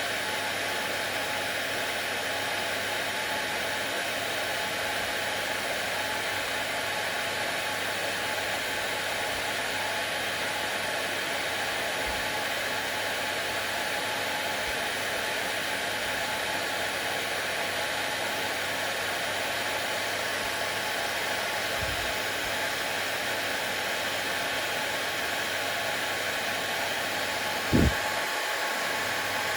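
Hair dryer running steadily, an even airy hiss with a faint steady hum, used as soothing white noise for a baby. A brief low thump sounds near the end.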